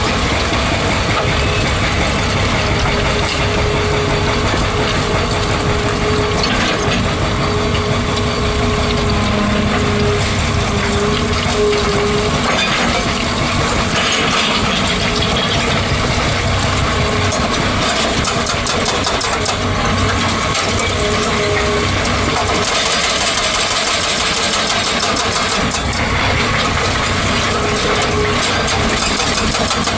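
Excavator's engine and hydraulics working steadily, with a whine that comes and goes.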